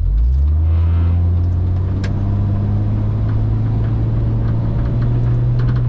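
1995 Jeep Cherokee XJ's engine running under way, heard from inside a cab stripped of its headliner and rear seats and lined with butyl sound-deadening mat. The engine note steps up in pitch just after the start and again near the end, with a single light click about two seconds in.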